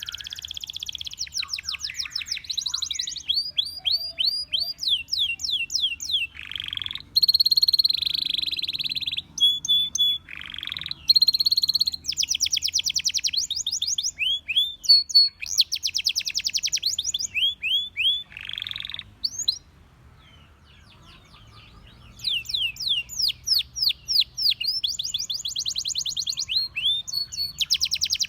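Domestic canary singing: fast trills of repeated high sweeping notes, broken by a few harsher buzzy notes and a pause of about two seconds about two-thirds of the way through.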